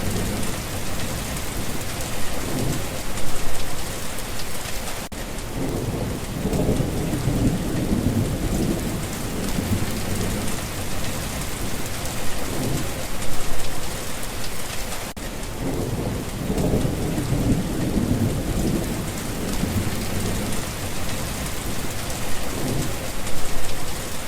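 Steady heavy rain hissing, with low rolls of thunder rumbling through it twice.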